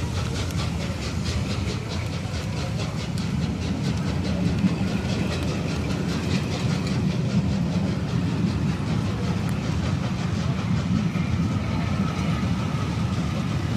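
Passenger carriages of a steam-hauled special train rolling past at speed: a steady rumble of wheels on the rails with a fast, regular clatter of wheels over the rail joints.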